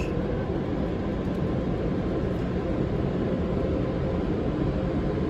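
Automatic car wash air dryers blowing, a steady rushing roar of air with a faint constant hum.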